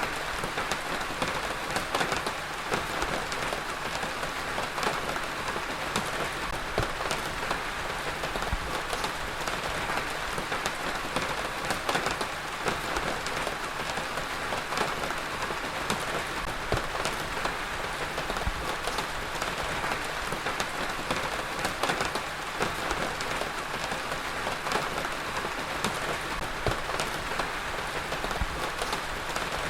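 Heavy rain falling steadily, a dense even hiss dotted with many sharp drop impacts.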